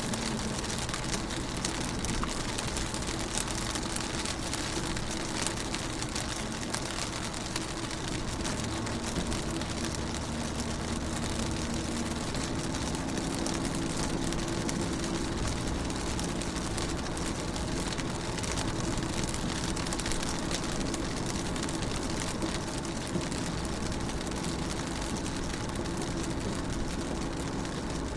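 Steady rain on a car, heard from inside the car: a dense patter of drops on the glass and body, with a faint low hum underneath.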